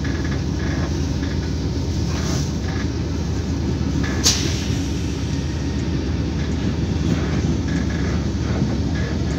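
Interior of an Irish Rail Mk4 Intercity coach running along the line: a steady low rumble of wheels and running gear on the track, with a single sharp click about four seconds in.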